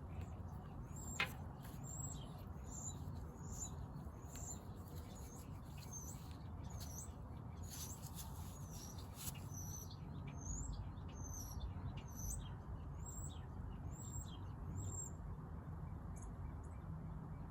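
A small bird chirping over and over in short, high notes above a low steady rumble, with one sharp click about a second in.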